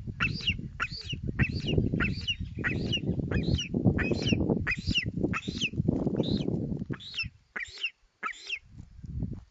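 A bird calling over and over, short high falling calls about twice a second, over a loud low rushing noise. The rushing drops away about seven seconds in, and the calls stop soon after.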